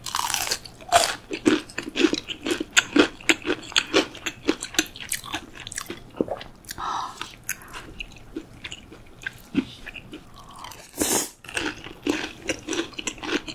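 Close-miked crunchy chewing of breaded, deep-fried pork cutlet (tonkatsu): a run of crisp crunches at about two a second.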